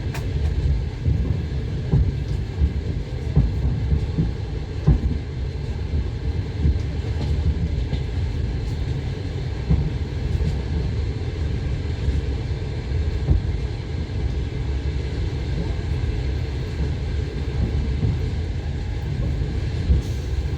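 Steady low rumble of a moving train heard from inside the carriage, with wheels knocking now and then over rail joints.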